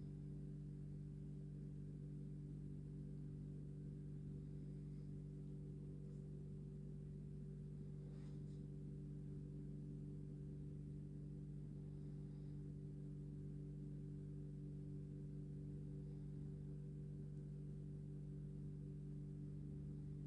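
Steady low hum of several constant tones, with a few faint, brief higher sounds near 4, 8 and 12 seconds in.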